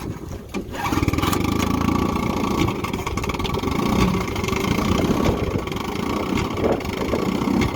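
A 1959 Evinrude Sportwin 10 hp two-cylinder two-stroke outboard motor being started: it catches about a second in and then runs steadily with rapid, uneven firing.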